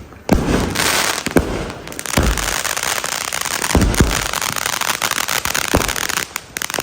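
Consumer ground fireworks going off: a dense run of crackling with several sharp bangs scattered through it, stopping near the end.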